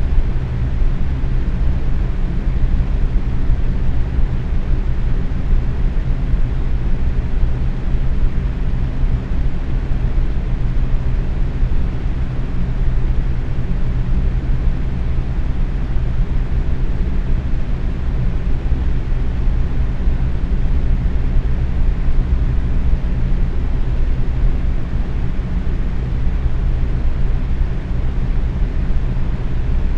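Box fan running steadily at medium speed: an even whooshing hum of moving air, strongest in the low range, with a faint motor hum underneath.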